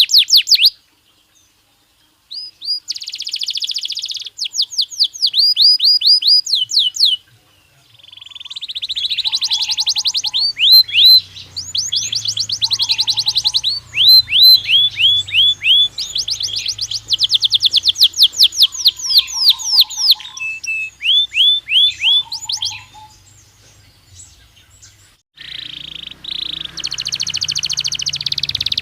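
Belgian canary singing: fast trills of repeated high, down-sweeping notes in a run of phrases, with short pauses between them and a longer pause near the start.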